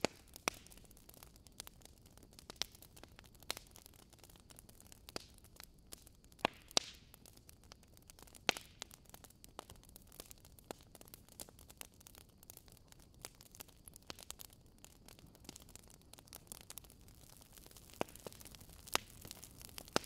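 Large brushwood bonfire crackling: irregular sharp pops and snaps over a faint steady hiss, with a few louder snaps near the middle and one near the end.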